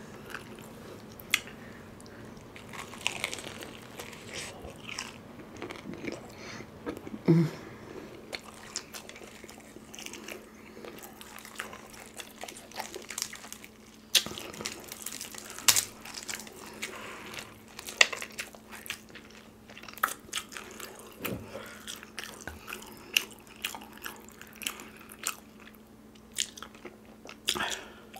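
Close-miked biting and chewing of crispy Krispy Krunchy fried chicken, with irregular sharp crunches of the breading scattered throughout.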